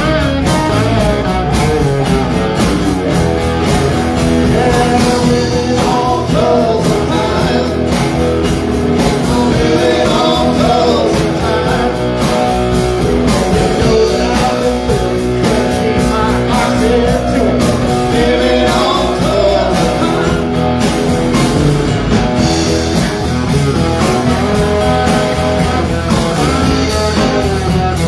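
Live country-rock band playing loudly, with electric guitar out front over bass and drums.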